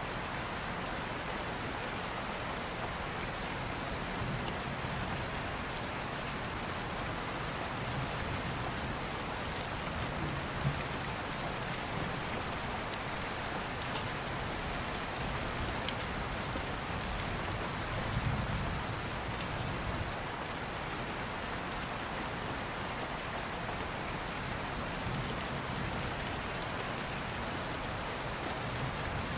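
Steady rain falling, with a few sharp pops from a crackling wood fire and a low rumble about 18 seconds in.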